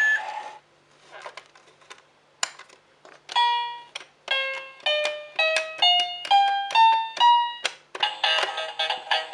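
Electronic toy keyboard: a few light clicks, then single notes pressed one at a time, eight of them climbing up a scale, followed near the end by a busier electronic jingle.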